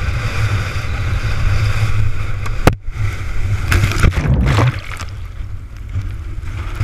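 Gale-force wind buffeting the microphone as a heavy, steady rumble over rushing water and surf noise. A single sharp click comes about two and a half seconds in, with a brief drop in the sound.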